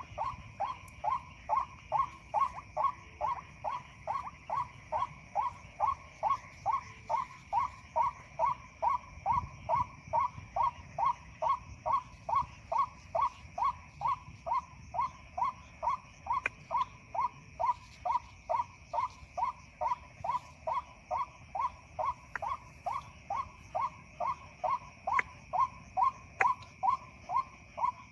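White-breasted waterhen call, a 'ruak' note repeated evenly about twice a second, played from an MP3 lure. Behind it a steady, high-pitched chorus of night insects.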